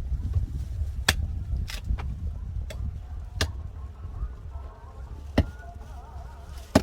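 About six irregular sharp wooden knocks of firewood being worked, the loudest near the end, over a steady low rumble.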